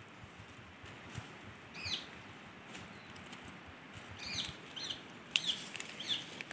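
Birds calling: short, sweeping high chirps, one about two seconds in and then a quick series through the second half. Under them, soft rustling and sharp snaps of leafy plant stalks being pulled and handled.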